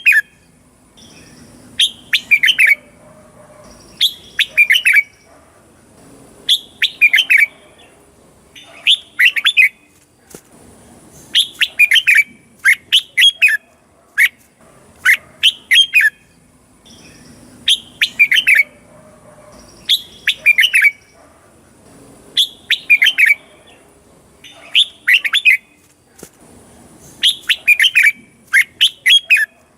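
Red-whiskered bulbul singing: short bursts of a few quick whistled notes, repeated about every two to two and a half seconds.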